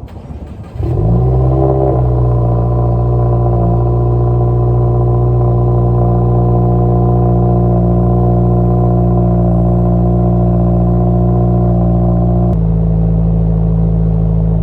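Subaru flat-four boxer engine starting about a second in, revs rising briefly and then settling into a steady idle through a newly fitted FactionFab axle-back exhaust. The idle note shifts slightly near the end.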